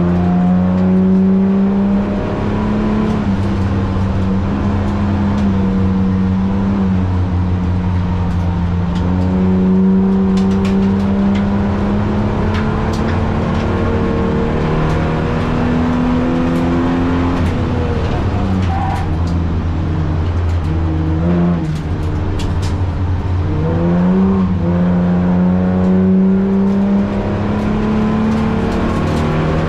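Holden VT Commodore's 3.8-litre V6 driven hard on a sprint course. The engine revs up and drops back through gear changes and lifts, dips deeply in revs about two-thirds of the way through as the car slows, then pulls hard again.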